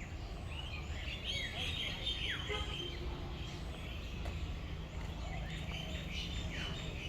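Several birds chirping and calling, with short bright notes and a couple of falling whistled notes, over a steady low rumble of background noise.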